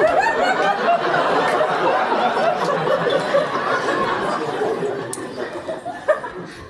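Audience laughing, loud at first and dying away over the last couple of seconds.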